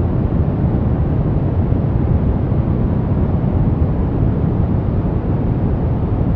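Brown noise: a steady, even rumbling hiss with most of its weight in the low end and little treble, unchanging throughout.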